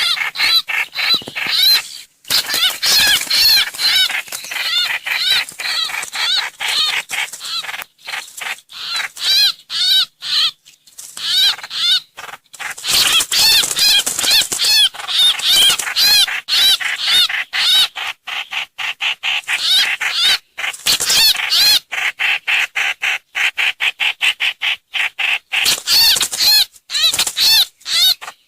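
Trao trảo (hoành hoạch) bird calls from a bird-lure recording: fast runs of short, arched, chattering notes, repeated in phrases with brief pauses between them.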